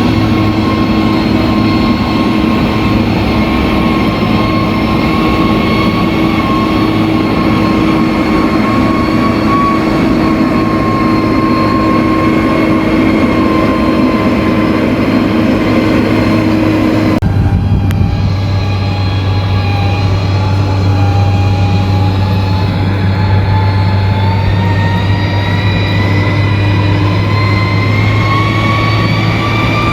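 Heavy earthmoving machine's diesel engine running steadily and loudly. About seventeen seconds in the engine note changes abruptly, then slowly rises in pitch as it revs up.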